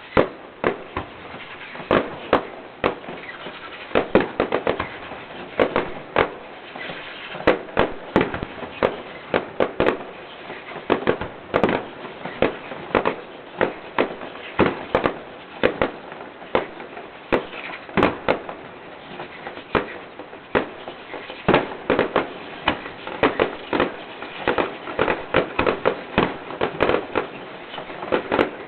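Fireworks going off in quick succession: a dense run of sharp bangs, two or three a second and sometimes clustered, over a continuous crackle.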